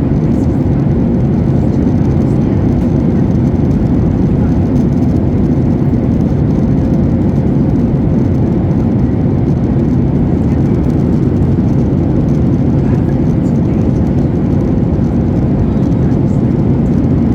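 Steady, low-pitched noise heard inside the cabin of a Ryanair Boeing 737-8200 airliner, made by its engines and the air rushing past, with a faint steady hum.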